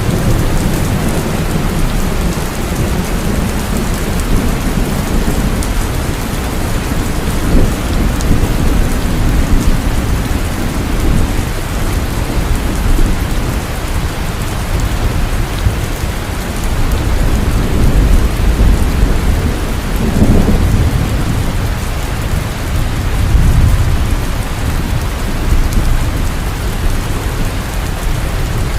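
Heavy rain falling steadily with deep rolling thunder rumbling underneath, swelling several times.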